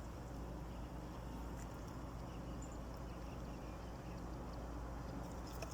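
Small boat motor running steadily with a low, even hum. There is a faint click near the end.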